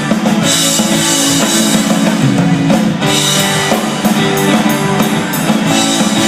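Instrumental passage of a rock song: drum kit keeping a steady beat under guitar and bass, with no singing.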